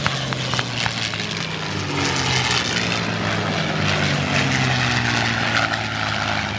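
Propeller-driven WWII fighter aircraft with piston engines passing over, a steady engine drone whose pitch slowly falls as they go by. A few faint sharp cracks sound in the first second.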